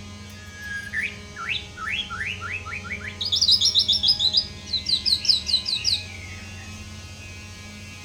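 White-rumped shama singing. A short whistle leads into a run of quick rising notes, then a faster, higher series of repeated notes that stops about six seconds in. A steady electrical hum runs underneath.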